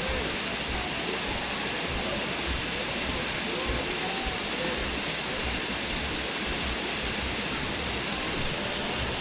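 Waterfall rushing steadily, a dense, even roar of falling water close by.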